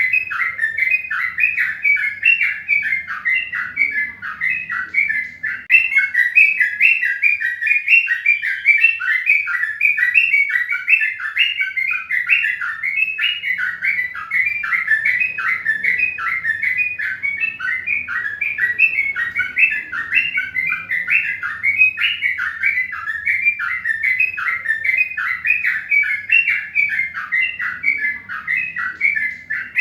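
Birds chirping continuously, short high notes repeating about three times a second without a break.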